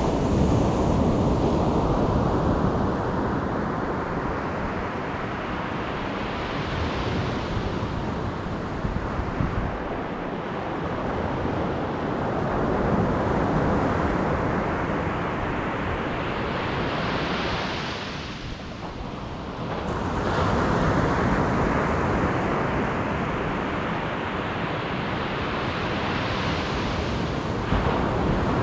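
Ocean surf breaking on a beach: a continuous rush of waves that swells and ebbs in cycles of roughly ten seconds, with a brief lull about eighteen seconds in.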